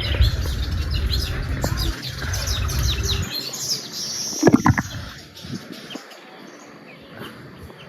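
Small birds chirping and twittering in quick, repeated calls, with wind rumbling on the microphone for the first three seconds or so. A brief louder sound about four and a half seconds in, and quieter toward the end.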